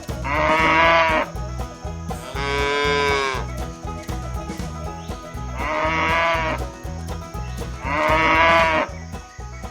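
Cow mooing four times, each call about a second long, over background music with a steady beat.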